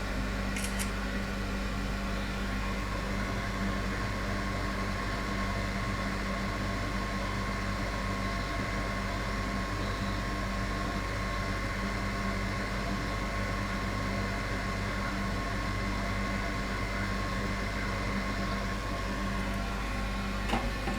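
Steady whir of a hot air rework station's blower running continuously while chips are lifted off a MacBook logic board, with a faint electrical hum under it. A single light click near the end.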